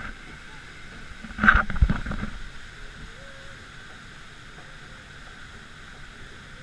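Steady rushing noise of a river-rapids raft ride under way on the water, with a short loud burst of knocks about a second and a half in.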